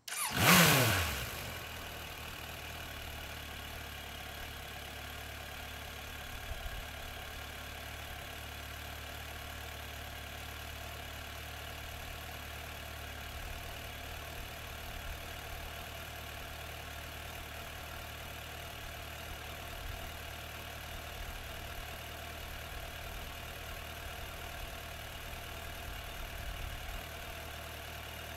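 2003 Suzuki Bandit 1200's inline-four engine through its stock muffler, firing up with a brief loud burst whose pitch falls within about a second and a half, then idling steadily.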